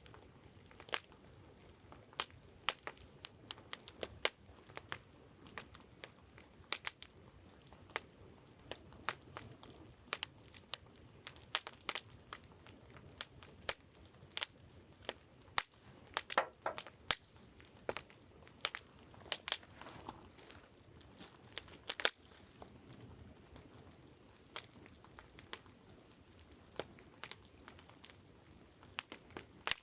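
Wood campfire crackling: irregular sharp pops and snaps, several a second, some louder than others, over a faint steady hiss.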